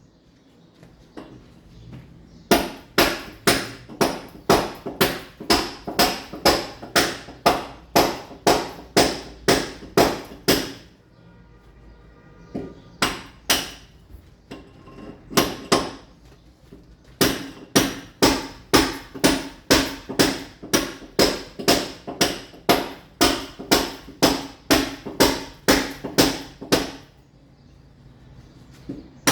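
Mason's club hammer striking a chisel, chipping into a masonry wall to roughen it for tiling, in steady runs of about three blows a second with a few short pauses.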